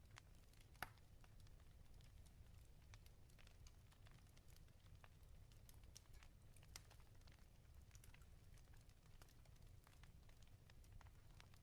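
Wood fire crackling in a fireplace, faint: irregular sharp pops and snaps over a low steady rumble, the strongest pop about a second in.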